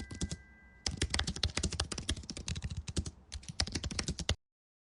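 Computer keyboard typing: rapid keystroke clicks in quick runs with short pauses, stopping abruptly near the end.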